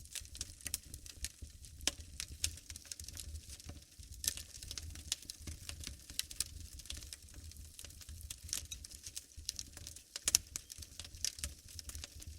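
Wood fire crackling in a fireplace: irregular sharp pops and snaps over a low rumble of the flames, with one louder pop near the end.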